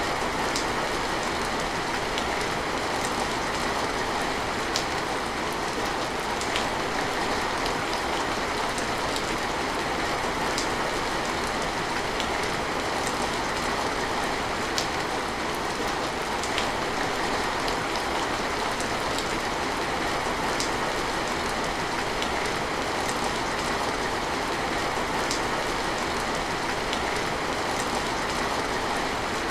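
Steady rain: an even hiss of falling rain with scattered sharper drop ticks.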